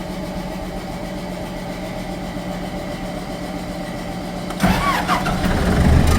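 A steady engine hum, then about four and a half seconds in a cold diesel engine on a farm machine is cranked over with a brief rising whine and fires within about a second, settling into a loud, deep, steady run: a quick, easy cold start.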